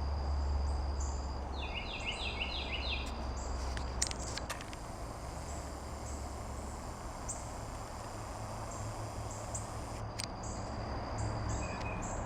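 Late-summer garden ambience: insects singing, a steady high trill and repeated short high chirps, with a bird calling a quick run of notes about two seconds in, over a low rumble.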